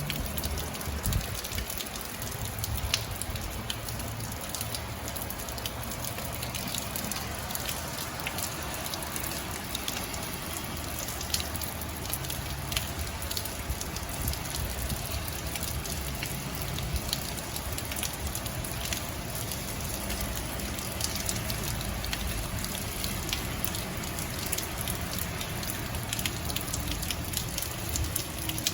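Steady rain falling, with many individual drops ticking sharply on nearby surfaces over a low rumble.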